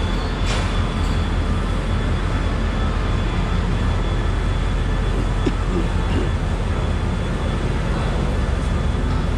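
Steady low vehicle rumble under a constant hiss of background noise, with no clear strokes or changes.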